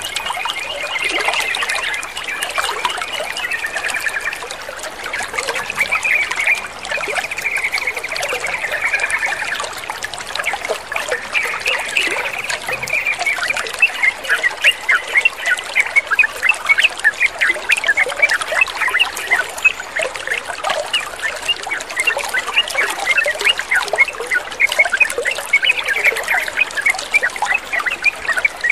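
Sooty-headed bulbuls (trucukan) chattering and singing in a run of quick, repeated notes over steadily trickling water. The notes come faster and stronger from about halfway through.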